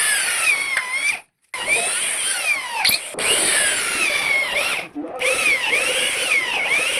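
Handheld electric power tool running on wood, its motor whine dipping in pitch and recovering again and again as it works under load. It cuts out briefly twice.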